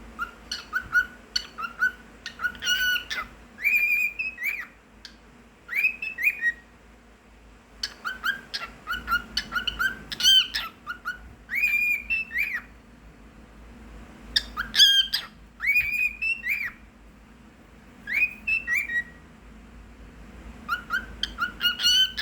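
Cockatiel singing: bouts of whistled phrases, runs of short repeated notes mixed with rising and falling whistles, broken by pauses of a second or two.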